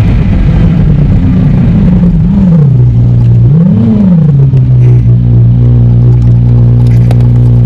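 McLaren 765LT's twin-turbo V8 heard from inside the cabin, its revs rising and falling twice and then settling into a steady low idle as the car slows. The audio runs at triple speed with its pitch kept normal.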